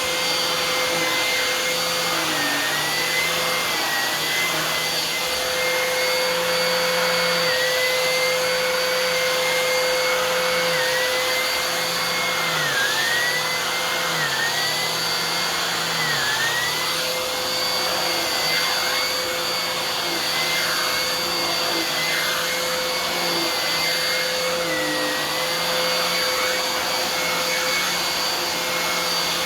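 Bissell PowerLifter Swirl Pet upright vacuum cleaner running steadily with a whine, its pitch dipping briefly every second or two.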